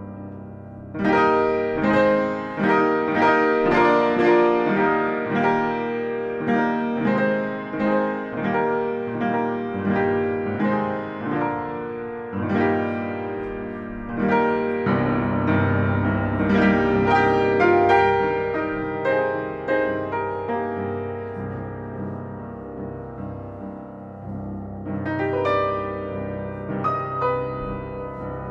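Solo piano played live: dense runs of struck notes and chords that come in loud about a second in. Low bass notes join partway through, the playing eases off, and a new flurry of high notes starts near the end.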